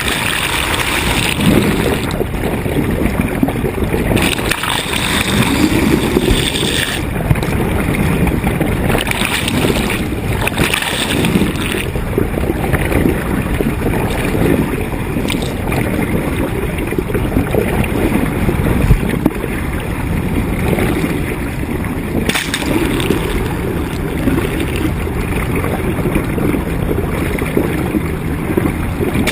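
Water rushing and splashing along a sailboat's hull as it moves, with wind gusting on the microphone in several brighter stretches.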